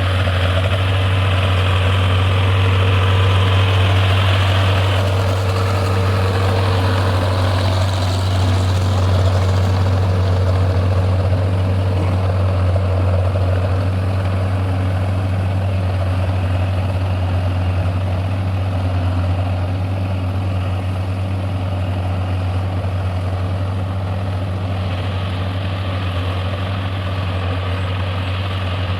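Tractor engine running steadily: a constant low drone with a hiss over it that eases off about five seconds in and comes back near the end.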